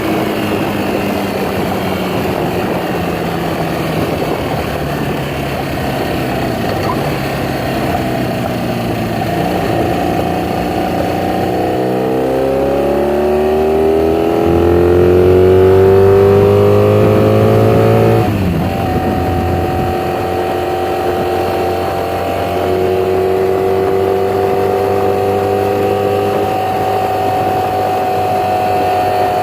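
1982 Honda Magna's V4 engine running through newly fitted Emgo mufflers. Its pitch climbs steadily for several seconds, drops suddenly about eighteen seconds in, then holds steady, higher than where it began.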